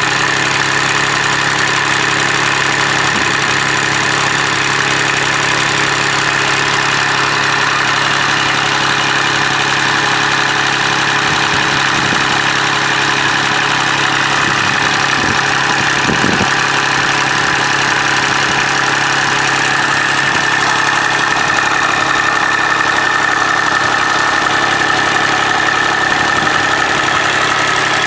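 Kubota D1105 three-cylinder diesel engine running steadily at an even speed.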